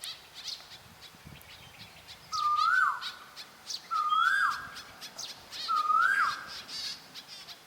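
Several wild birds singing: one bird repeats a whistled call three times, roughly every second and a half, each a held note that rises and then drops sharply, over many short, higher chirps from other birds.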